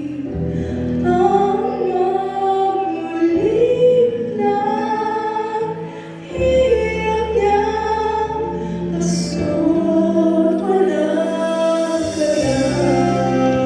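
Singing of a slow Christmas song over accompaniment, the melody held in long notes above low bass notes that change about every three seconds.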